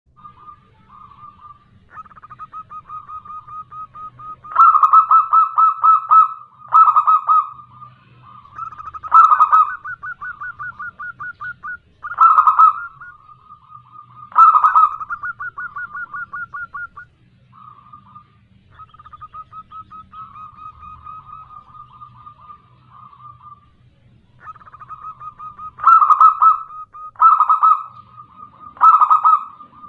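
Female zebra dove (perkutut) calling: long rapid trains of short coos, about ten a second, broken by several much louder bursts in the middle and again near the end. This is a lure call meant to make male zebra doves answer and sing.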